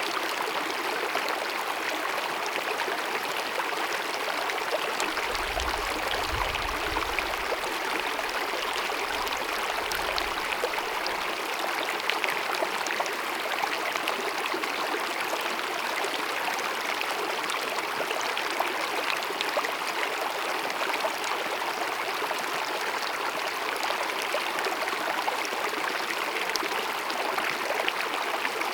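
Glacier-fed mountain meadow stream babbling and cascading steadily. A low rumble joins it from about five seconds in and fades out after about eleven seconds.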